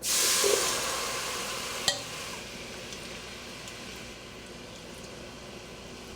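Chili heating in a pot, a steady hiss that starts suddenly and slowly eases off, with one sharp clink about two seconds in.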